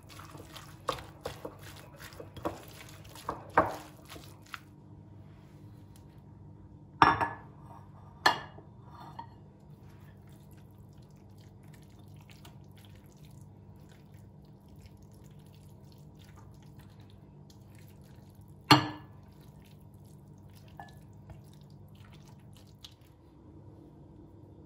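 Kitchenware clinking and knocking: a quick run of light clicks, then three separate sharp knocks, over a steady low hum.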